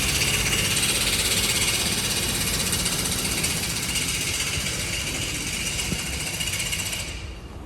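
Hino truck's diesel engine running with a fast, even clatter and a strong hiss, easing slightly and then fading out near the end.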